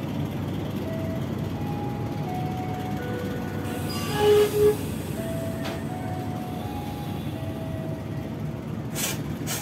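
Kahuripan passenger train pulling out of the station, its carriages rolling past with a steady rumble, and two short louder sounds about four seconds in.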